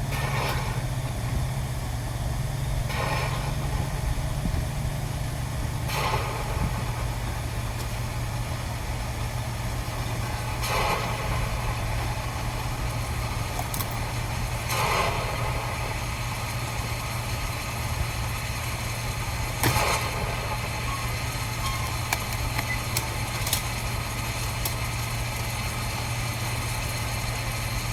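A machine runs steadily with a low, even hum like an idling engine. Short noisy clatters break in every few seconds, six times in all.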